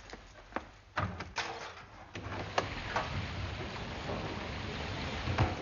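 A door or window being opened with a few knocks and clatters, then a steady hiss of rain for a few seconds, with a thump near the end.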